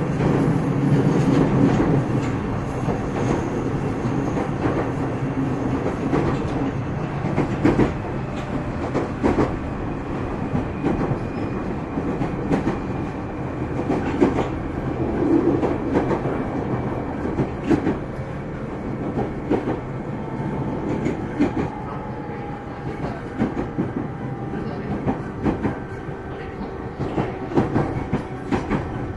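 Running noise inside the JR 209 series electric multiple unit's motor car MoHa 209-2151 at speed: a steady low rolling rumble with the wheels clicking over rail joints in irregular clusters, and faint steady tones in the second half.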